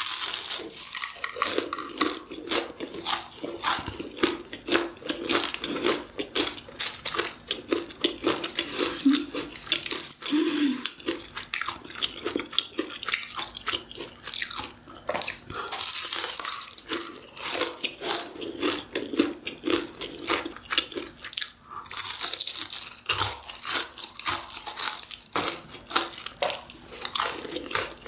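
Close-miked chewing of crispy seafood green-onion pancake (haemul pajeon): dense, irregular crunching bites and chewing that run on without pause.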